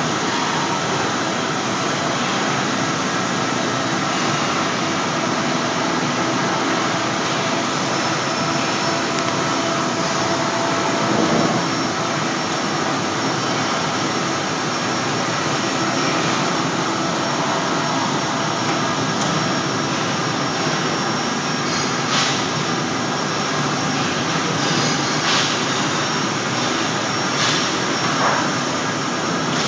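A CNC steel-beam processing line running with a steady, loud mechanical noise, with a few short sharp sounds in the last several seconds.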